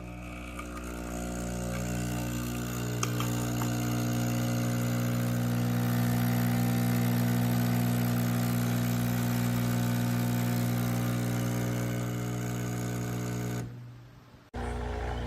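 Nespresso Essenza Mini capsule machine's pump buzzing steadily as it pushes water through a capsule. It builds over the first couple of seconds and stops about fourteen seconds in, and a similar mechanical hum starts again just before the end.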